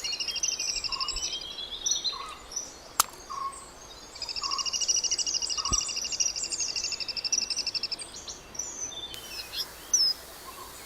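Wild birds calling: a long, rapidly pulsed trill heard twice, each lasting several seconds, over short repeated chirps. A single sharp click sounds about three seconds in.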